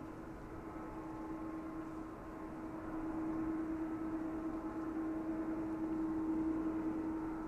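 Jet airliner engines running with a steady hum and a fainter high whine, growing louder about three seconds in.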